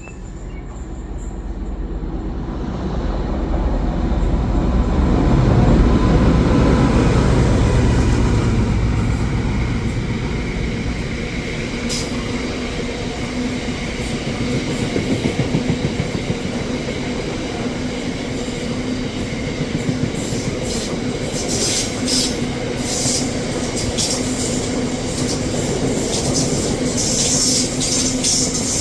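A train approaching and running past on the railway line, building to its loudest about six seconds in, then a long steady rumble of wheels on rail. Sharp high-pitched crackles and squeals from the wheels come in over the last several seconds.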